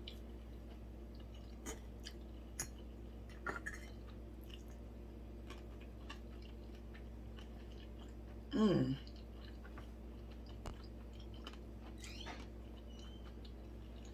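Close-miked chewing of sushi, with soft wet mouth clicks and smacks. A short hummed sound, falling in pitch, about two-thirds of the way through.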